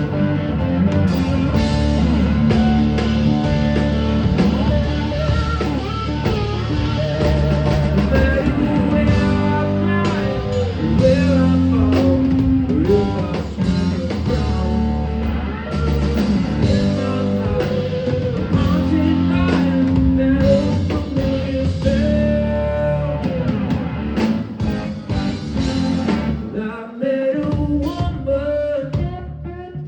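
A live blues-rock band playing an instrumental break: electric guitar lead with bending, sustained notes over bass and drums. Near the end the low end briefly drops out before the band comes back in.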